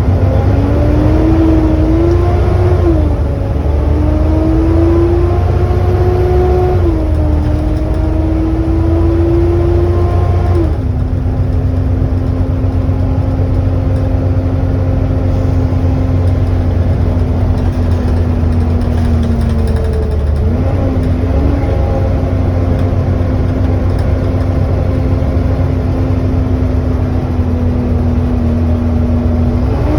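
Volvo B7TL double-decker bus heard from on board, its turbocharged six-cylinder diesel pulling with a loud vacuum-cleaner-like 'hoover' whine. The whine rises through the gears, dropping back at changes about 3 and 7 seconds in, then holds a steady pitch at cruising speed from about 11 seconds, with a brief dip and recovery near 20 seconds.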